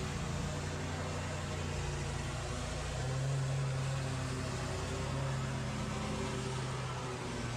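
Steady running of lawn-care power equipment, a broad rushing noise, under low held tones that change pitch every few seconds.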